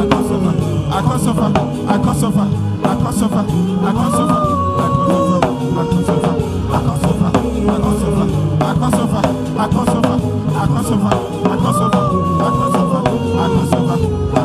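Instrumental worship music with a steady drum beat under a sliding lead melody; the melody's phrase comes round again about every eight seconds.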